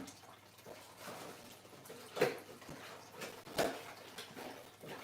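A few short knocks and clacks of desk parts and hardware being handled, the two loudest about two and three and a half seconds in.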